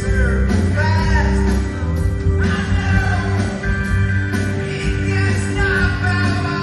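Rock band playing live: bass, drums and guitar with a sung melody over a steady beat.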